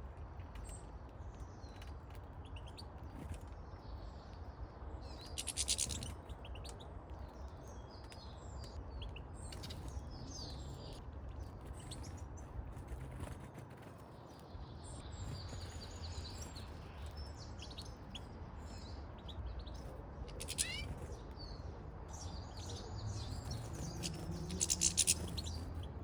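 Goldfinches and siskins twittering and chirping constantly, with two louder rapid bursts, one about six seconds in and one near the end, over a low steady background rumble.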